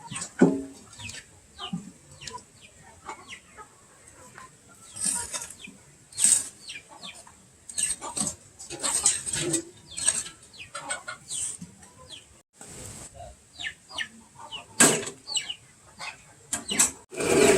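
Chickens clucking, with many short, scattered calls and sharp knocks. Right at the end a steady mechanical noise starts up.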